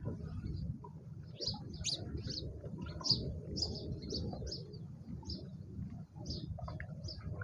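Small birds chirping at a bird feeder: a run of short, high chirps, several a second, over a low steady rumble.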